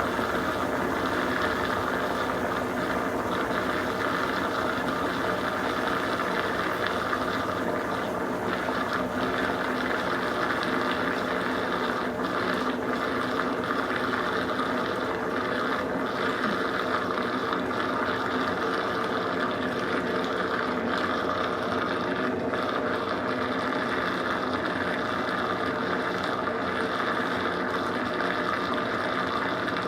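Consul Super Cargo 8 kg (CWL08C) top-load washing machine in its spin cycle, motor and drum running at a steady speed with an even hum of several tones.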